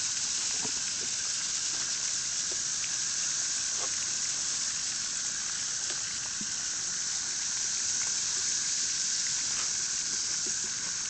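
Dense chorus of periodical cicadas: a steady, high-pitched hissing whir with no break, with a few faint ticks.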